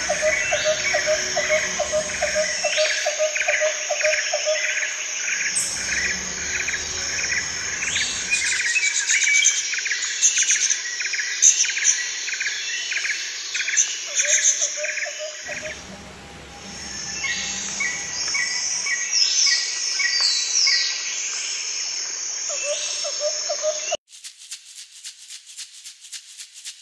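Many small birds chirping and twittering together, with one call repeated steadily about two to three times a second over the rest. Near the end the birds cut off abruptly and quieter music with a rhythmic shaker takes over.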